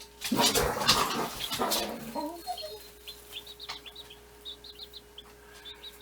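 A loud rustle or handling noise lasts about the first two seconds. After it, broiler chicks peep in short, high, repeated cheeps over a faint steady hum.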